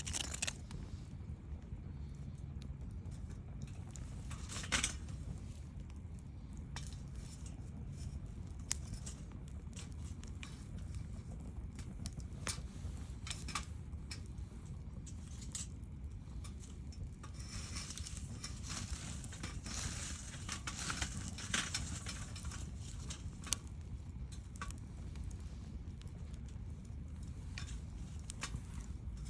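Wood campfire crackling, with scattered sharp pops over a steady low rumble; the pops come thicker for a few seconds a little past the middle.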